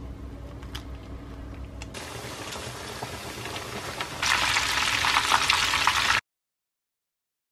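Panko-crumbed beef steaks frying in hot oil in a frying pan: a steady sizzling hiss that starts about two seconds in, turns much louder about four seconds in, and cuts off abruptly to silence a little after six seconds. Before it, mushroom gravy simmers quietly in a saucepan, a low hum with a couple of light clicks.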